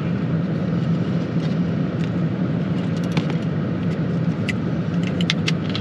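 Vehicle engine idling steadily, with a few light clicks and taps over it.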